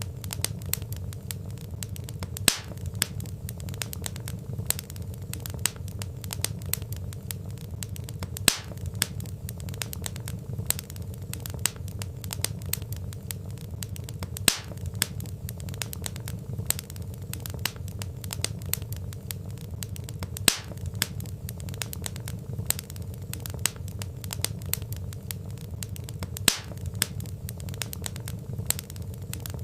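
Wood fire crackling: dense small snaps over a steady low rumble, with a louder pop about every six seconds.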